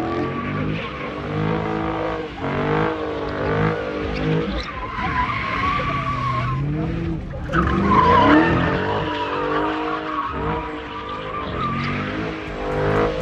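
Car engine revving up and down repeatedly while the tyres squeal and slide, as in a burnout or donuts.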